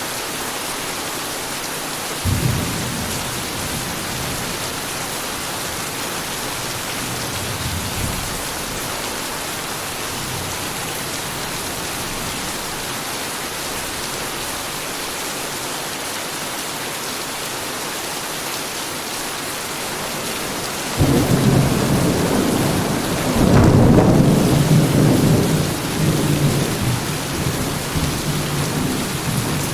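Heavy rain falling steadily, with a short low clap of thunder about two seconds in. In the last third a long peal of thunder breaks in, swells and rolls on.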